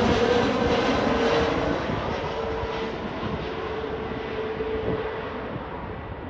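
Jet airliner landing, its engine noise fading steadily as it moves away: the high rush dies down first while a steady engine whine lingers.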